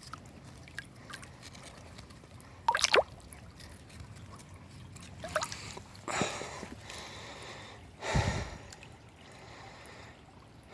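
Shallow creek water dripping and trickling, broken by a few sharp splashing sounds about three seconds in and softer ones later, with a short low bump near the end.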